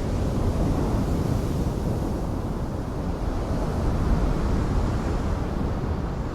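Steady rushing roar of a jet airliner landing, heaviest in the low end.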